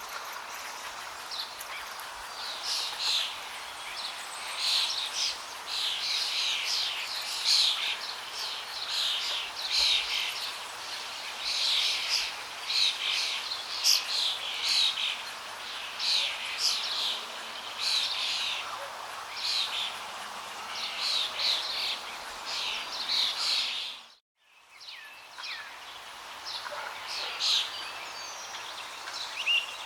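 Small birds chirping and singing in quick, overlapping calls over the steady rush of flowing water. About 24 seconds in, all sound cuts out for a moment, then the water returns with fewer, sparser bird calls.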